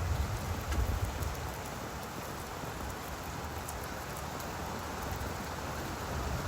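Steady rain falling on leaves, with faint scattered drips ticking through it and a low rumble in the first second or so.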